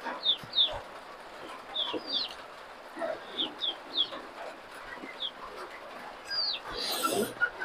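A bird's short, high, falling chirps, repeated every second or so and often in pairs, with soft chewing and lip-smacking between them.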